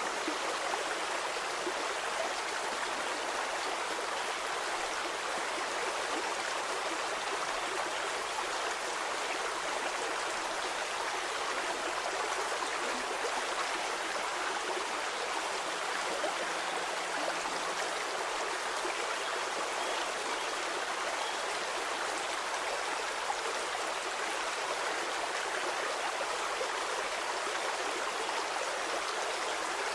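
Stream water flowing and babbling in a steady, unbroken rush.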